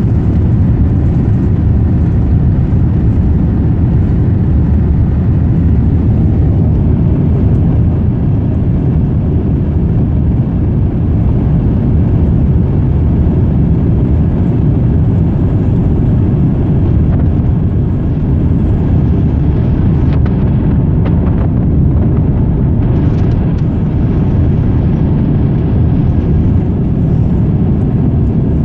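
Airbus A350 cabin noise at takeoff: its Rolls-Royce Trent XWB engines and the rushing air make a steady, loud low rumble.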